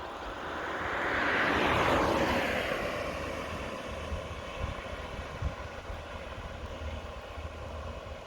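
A vehicle passing close by: its noise swells to a peak about two seconds in, then drops in pitch and fades, over the steady drone of running harvest machinery.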